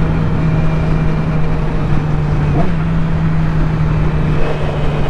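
Yamaha R6 sportbike's inline-four engine running at a steady speed while riding, heard from a helmet-mounted mic with wind rush.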